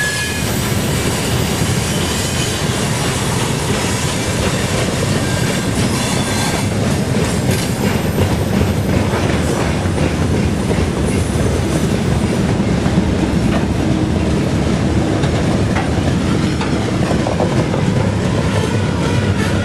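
Loaded freight wagons rolling past close by: a steady rumble of steel wheels on rail with a quick clickety-clack as the wheels cross the rail joints.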